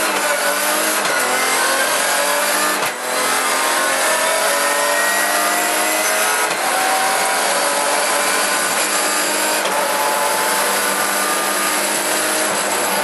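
Rally car engine heard from inside the cabin, running hard with its pitch climbing as it pulls through the gears. The pitch drops and the level dips briefly about 3 seconds in, and again about 6.5 seconds in, at gear changes, over a constant rush of road and tyre noise.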